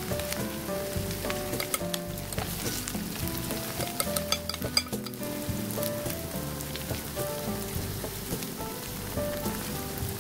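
Shredded sweet potato sizzling in a thin layer of oil in a nonstick frying pan, under steady background music. A few light clicks of the turner against the pan come about four to five seconds in.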